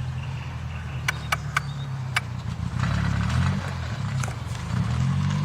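Car engine running with a deep, uneven low rumble. A few sharp clicks come in the first two seconds.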